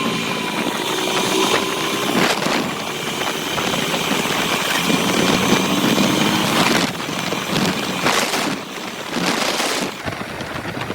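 Motorcycle engine running, with louder surges about two seconds in and several times in the second half.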